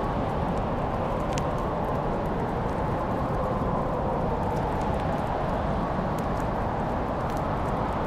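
Wood fire burning in a fireplace: a steady low rushing noise with a few faint, sharp crackles and pops scattered through it.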